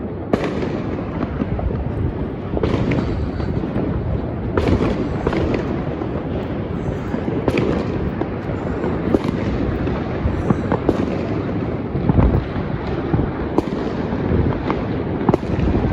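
Fireworks going off all around at once: a continuous rumble of many bangs, with sharper nearby cracks every second or so.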